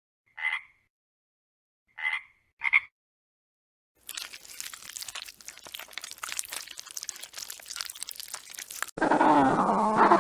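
Animal calls: three short, rasping calls, then a dense crackling clatter, and near the end a loud, pitched call that bends up and down.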